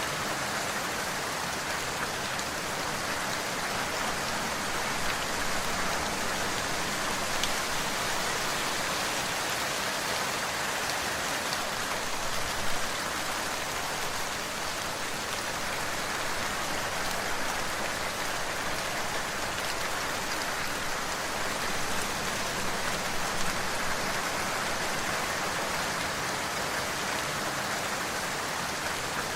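Steady rain falling on a surface, an even hiss with a few individual drops ticking through it.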